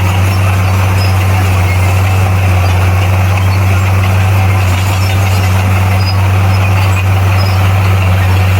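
Heavy earthmoving machine's diesel engine running steadily with a deep, unchanging hum.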